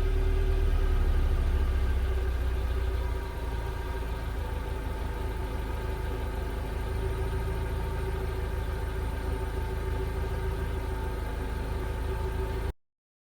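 Subaru Pleo Van's four-cylinder kei-car engine idling through its stock muffler, a steady exhaust hum. It settles a little quieter about three seconds in, and the sound cuts off abruptly near the end.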